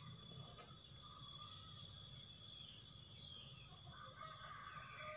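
Near silence: faint room tone with distant bird calls, a few short chirps.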